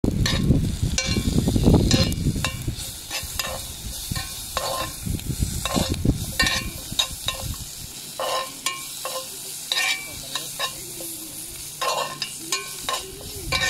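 Sliced onions and carrots sizzling in a cast iron skillet while a metal spoon stirs them, scraping and tapping against the pan in short repeated strokes. A low rumble sits under the first couple of seconds.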